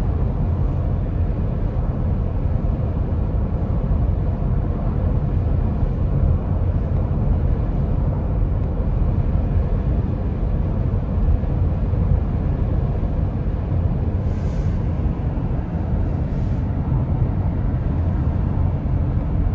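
Road noise inside the cabin of an electric Tesla Model X at freeway speed: a steady low rumble of tyres and wind, with a faint steady hum and two brief hisses about fourteen and sixteen seconds in.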